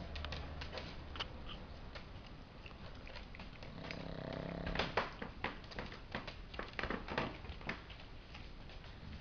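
Dog snoring in its sleep: one low snore about four seconds in, lasting about a second, followed by a string of sharp clicks and ticks.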